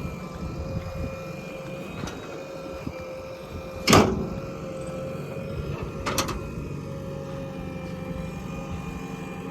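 Heavy diesel earthmoving machinery running steadily with a steady whine over the engine, a loud metallic clank about four seconds in and a smaller double knock about two seconds later.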